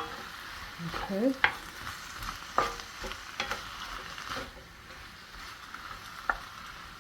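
Diced chicken and onions sizzling in a wok while a spatula stirs them, with a steady frying hiss and irregular scrapes and knocks of the spatula against the pan, most of them in the first half.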